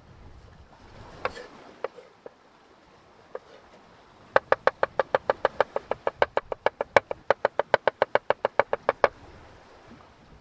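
A knife chopping rapidly on a cutting board, a fast even run of about seven strikes a second for nearly five seconds, after a few scattered single knocks.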